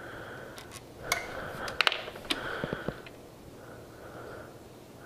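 A few light metallic clicks and taps of hand tools and parts on a motorcycle's gear shift linkage while it is unbolted and turned for a GP shift pattern. The loudest pair of clicks comes about two seconds in.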